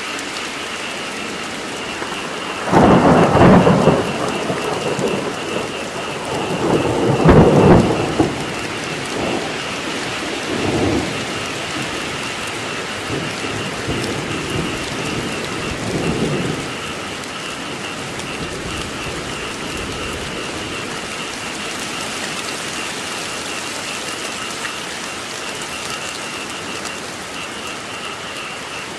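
Steady heavy rain with thunder: two loud rolls of thunder about three and seven seconds in, then weaker rumbles dying away by about sixteen seconds. A steady high pulsing chorus of frogs calls under the rain.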